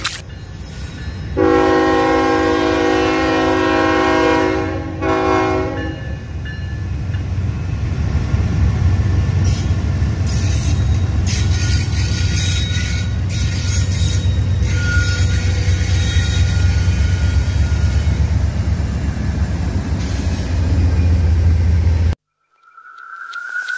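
A freight train's diesel locomotive horn sounds one long blast starting about a second and a half in and lasting roughly four seconds. The train's low rumble and rolling wheel noise then build steadily as the freight cars pass, and the sound cuts off abruptly near the end.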